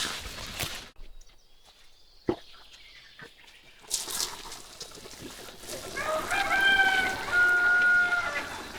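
A rooster crowing once, a long held call in two parts, starting about two-thirds of the way in.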